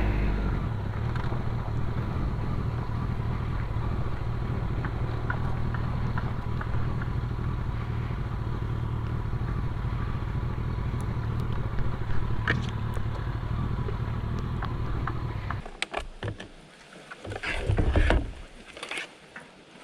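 Honda CBR1100XX Blackbird's inline-four engine running at a steady, even pitch during slow riding on a trail, with small ticks over it. The engine sound stops suddenly about three-quarters of the way through, leaving quieter scuffs and a louder rustle near the end.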